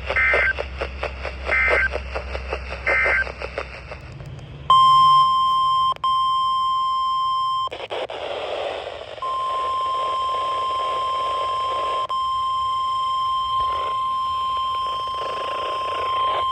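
NOAA Weather Radio 1050 Hz warning alarm tone: a steady high tone that starts about four and a half seconds in, drops out briefly near six seconds, stops about seven and a half seconds in, and after a moment of radio hiss comes back at about nine seconds and holds. Before it, three short two-pitch data bursts, typical of the SAME digital header, play over a rapid even pulsing noise.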